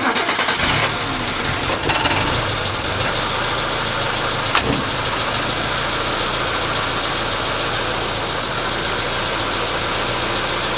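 Suzuki Samurai's four-cylinder engine idling steadily, coming in loud at once and slightly louder for the first second. One sharp click about four and a half seconds in.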